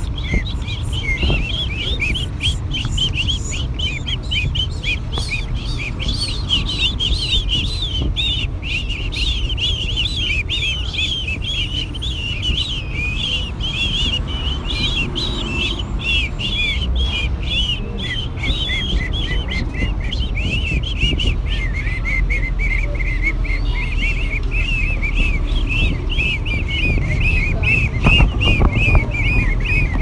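Small birds twittering: a dense, unbroken stream of quick, high chirps that overlap one another. The chirps drop slightly in pitch about two-thirds of the way through.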